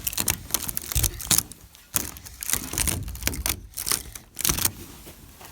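Irregular rustling and crackling with a few dull knocks, thinning out near the end.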